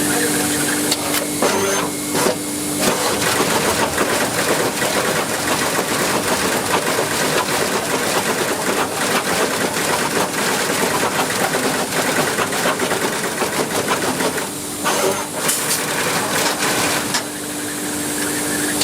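Factory-floor machinery noise: a dense, steady hiss and clatter with a constant hum underneath.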